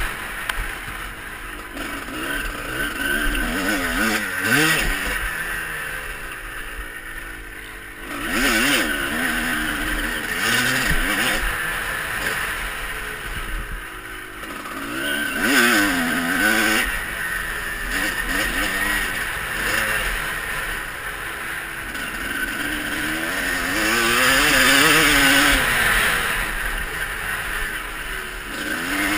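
Motocross bike engine revving up and dropping back again and again as it is ridden hard, the pitch climbing and falling several times with swells in loudness.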